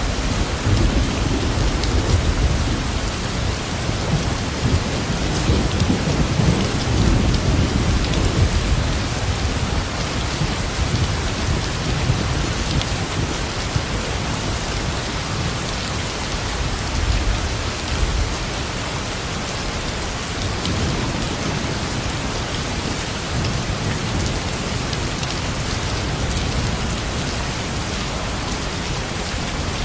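Steady heavy rain falling, with a low rumble of thunder strongest in the first several seconds that then eases.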